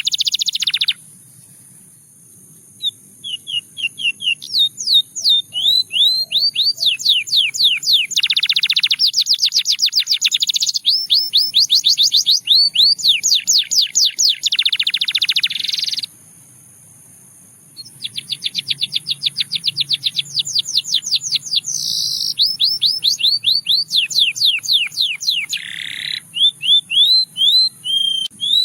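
Russian singing canary in song: rapid trills of repeated sweeping notes in long runs, broken by two pauses of about two seconds, one near the start and one about halfway through.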